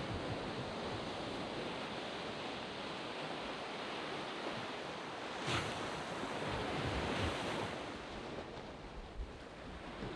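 Waves breaking and washing up a sand beach in a continuous wash, with a couple of louder surges about halfway through and a little wind on the microphone.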